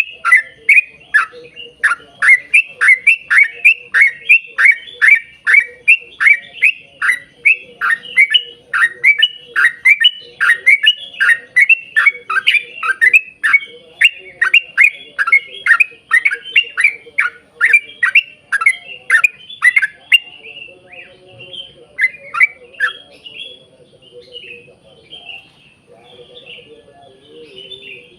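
Yellow-vented bulbul (trucukan) singing a long rapid-fire series of sharp, downward-slurred notes, about two a second, that stops about 20 seconds in. Softer scattered chirps follow near the end.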